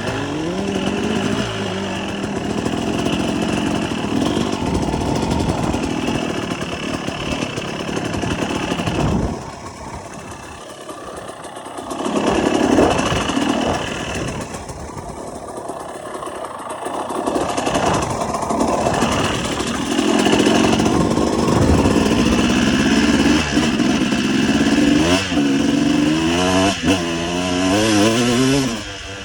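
Motocross bike engine under way, revs rising and falling as it is ridden. The throttle is eased off twice for a couple of seconds, about ten and fifteen seconds in. Near the end come quick rising revs.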